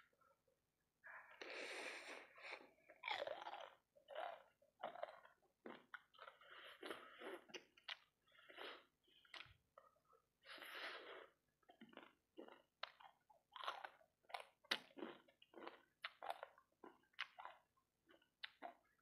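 Close-up chewing of sauce-coated fried rice balls: irregular, quick mouth and chewing sounds, beginning about a second in and continuing with short pauses.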